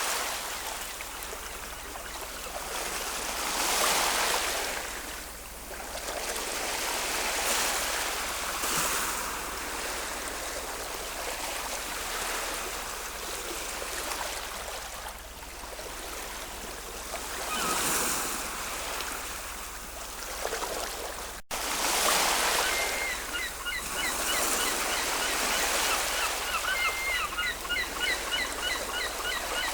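Ocean surf washing onto a shore in swells every few seconds. After an abrupt cut a little over 20 seconds in, a bird calls over the surf in quick runs of short repeated notes.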